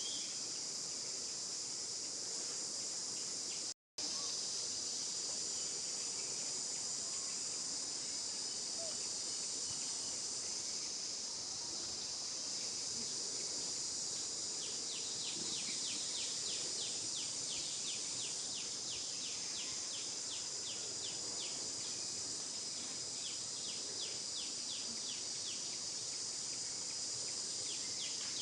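A steady, high-pitched insect chorus buzzes throughout. It cuts out for an instant about four seconds in. From about halfway, a rapid run of ticks, several a second, rises over it for roughly ten seconds.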